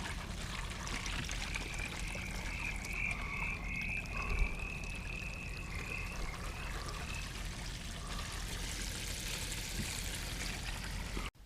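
Outdoor ambience with a rapid, pulsing trill-like call repeating for several seconds over a steady low hum; the sound cuts off abruptly near the end.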